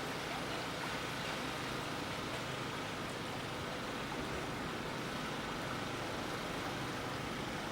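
Steady, even rush of a river's flowing water.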